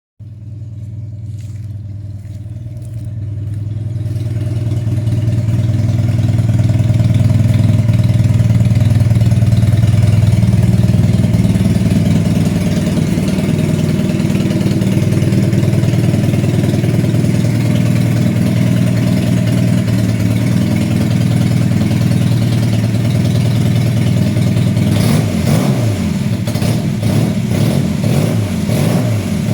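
Honda CB250N's air-cooled parallel-twin engine running through an aftermarket café racer/bobber exhaust, a steady deep note that builds in loudness over the first several seconds. In the last few seconds the revs rise and fall repeatedly.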